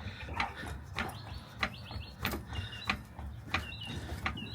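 Jack being worked under a car: a regular click about every half second, with short high squeaks between them.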